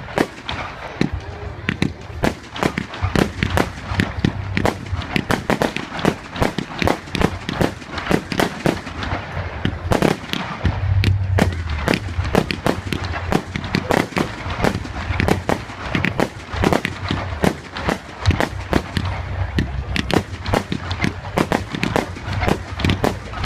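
Fireworks display: a rapid, unbroken run of bangs and crackles, several a second, over a low rumble.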